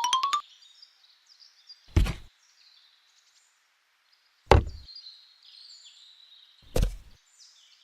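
Three sharp knocks, evenly spaced about two seconds apart, with faint high chirps between them. The tail of a rising boing sound effect is heard right at the start.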